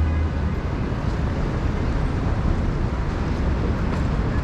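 Steady street traffic noise: an even low rumble of passing vehicles.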